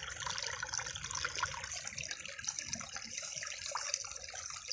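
Small creek waterfall splashing and trickling steadily.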